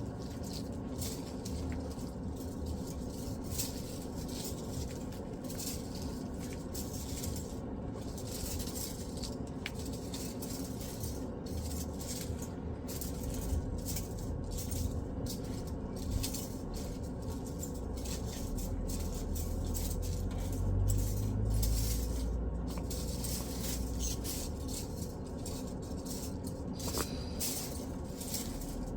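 Irregular rustling and crackling handling sounds that run on, with a low rumble swelling about two-thirds of the way through.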